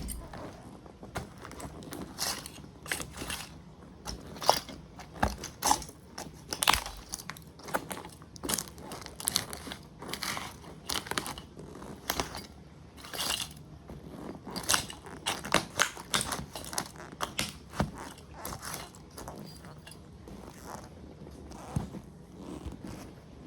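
A toy model truck being crushed under Fox motocross boots: irregular cracks, crunches and crinkles of breaking parts. They come thick and fast for most of the time and thin out near the end.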